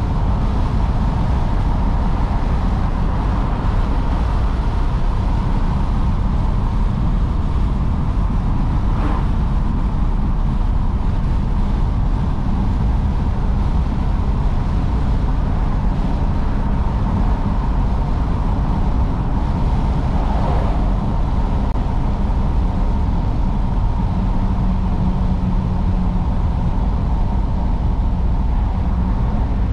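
Steady low rumble of a car under way, engine and road noise together, most likely the 1953 Oldsmobile Super 88 being driven. The level stays even throughout.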